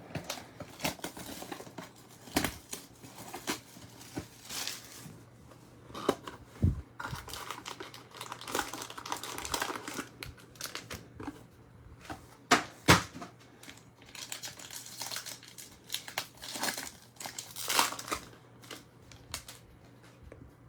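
Trading-card pack being torn open, its wrapper crinkling and crumpling, with cards handled and tapped. There are irregular bursts of crinkling throughout and a few sharp knocks, the loudest about 12 to 13 seconds in.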